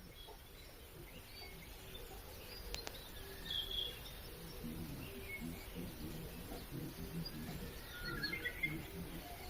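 Small birds chirping faintly, scattered short calls, over a low outdoor background hum, with a couple of sharp clicks about three seconds in.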